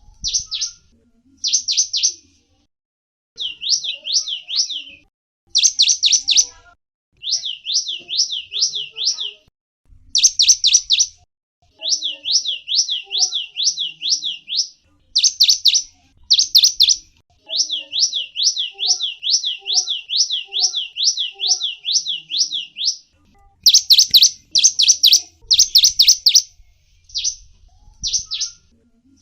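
Gelatik wingko songbird singing: phrases of quick, high notes that slide downward, about four or five a second, repeated with short pauses between phrases.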